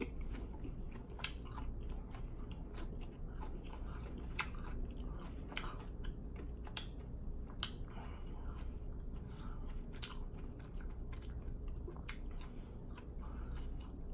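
A person chewing and biting food close to the microphone, with irregular sharp mouth clicks and crunches.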